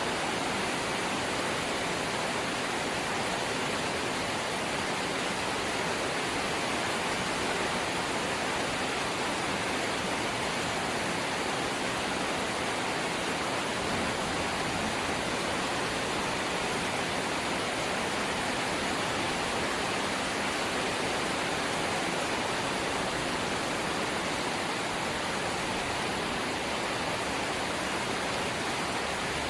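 Light rain falling steadily: a continuous even hiss with no single drops or gusts standing out.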